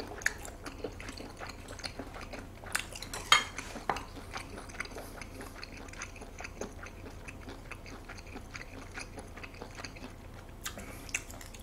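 Close-miked chewing of raw food, with wet mouth clicks and a few sharper clicks of chopsticks against dishes, the loudest about three seconds in.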